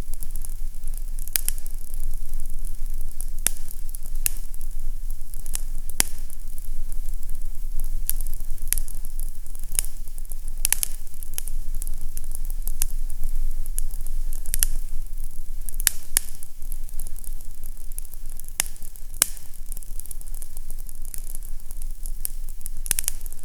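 Fireplace fire crackling: irregular sharp pops and snaps, roughly one a second, over a steady low rumble and hiss.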